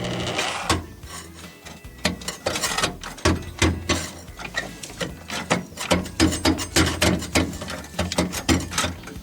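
Tools striking and working the sheet metal of a 1955–59 Chevrolet pickup's dash and cab: an uneven run of knocks and clanks, about two to three a second, after a brief steady noise in the first half second.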